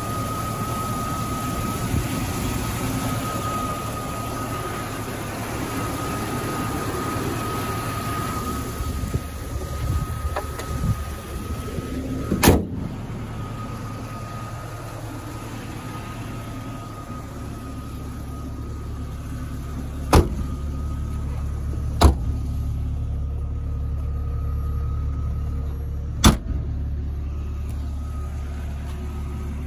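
1999 Jeep Cherokee XJ's 4.0-litre straight-six idling steadily, with a thin whine that fades after about eight seconds. The hood slams shut about twelve seconds in, then three further sharp clunks come later on.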